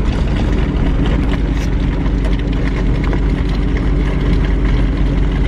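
A car engine running steadily at an even speed, with a constant low hum.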